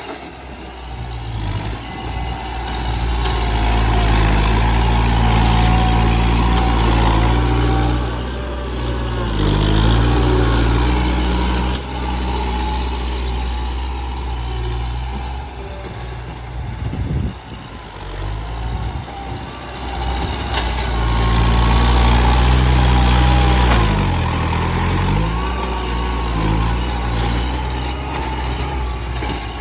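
Heavy truck engine running, its pitch dropping and climbing back twice, once about a third of the way in and again near the end.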